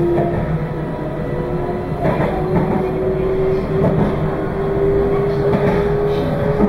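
Meitetsu 2200 series electric train running: a whine from its traction motors that slowly rises in pitch as it gathers speed, over a steady rumble of wheels on rail with a few short knocks.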